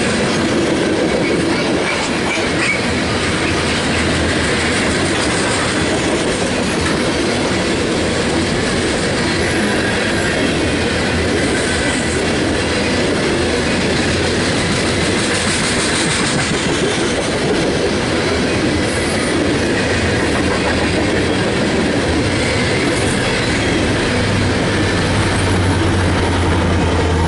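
A freight train rolling past, a steady loud rush of wheels on rail, with a deeper low rumble coming in near the end.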